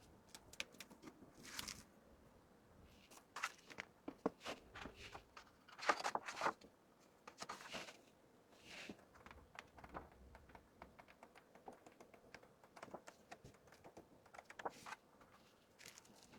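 Items and plastic packaging being handled: short bursts of crinkling among scattered light clicks and taps, the loudest about six seconds in.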